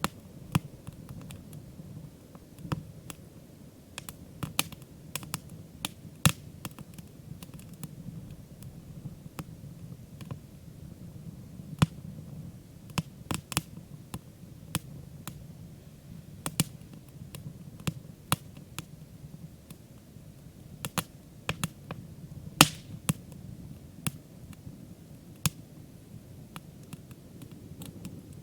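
Wood campfire crackling, with sharp, irregular pops and snaps every second or so over a low, steady background.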